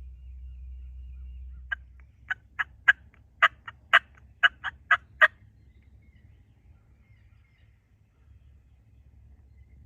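Wild turkey yelping: a run of about ten short, sharp yelps lasting some three and a half seconds, getting louder as it goes. A low rumble underneath drops away about two seconds in.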